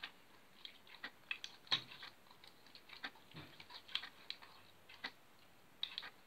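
Toy slime being squeezed and handled, giving faint, irregular sticky clicks and crackles, a few a second.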